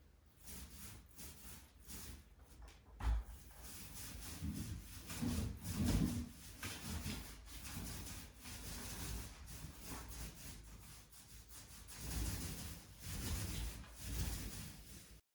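Paint roller rolling paint onto a wall in repeated uneven strokes, a rough rubbing sound with soft low thuds. It stops abruptly near the end.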